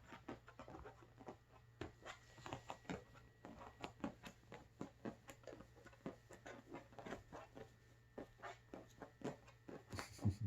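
A pet cockatoo's light, irregular tapping and scratching, several small clicks a second, with one louder knock near the end.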